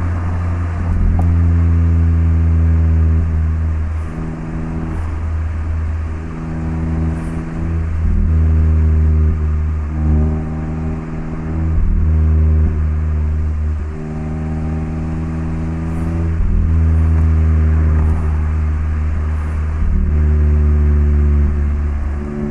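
Mazda ND MX-5 (Roadster) 1.5-litre four-cylinder exhaust note through an HKS LEGAMAX Sports muffler, heard while driving. The engine note holds or climbs a little, then dips briefly every couple of seconds as the throttle is worked.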